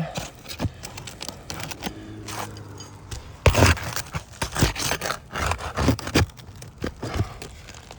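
Brittle asphalt roof shingle being lifted and worked loose, scraping and crackling as it tears at the tab and around a nail, with a sharp loud scrape about three and a half seconds in. It tears with very little manipulation, a sign of brittleness.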